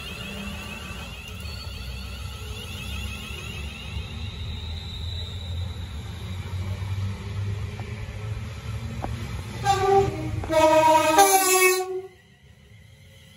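Class 350 Desiro electric multiple unit accelerating away from the platform: wheel rumble building and a faint rising electric whine. Near the end a train horn gives a short toot, then a longer, louder blast that drops from a higher to a lower note, and the sound cuts off suddenly.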